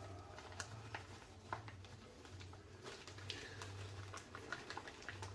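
Faint kitchen handling sounds: scattered light knocks and short rustles, likely the plastic bag of flour being handled, over a low hum that comes and goes.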